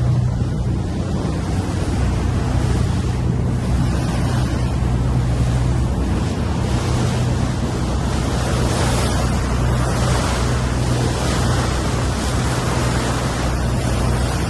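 A yacht's engine running with a steady low hum, under the rush of water along the hull and wind buffeting the microphone.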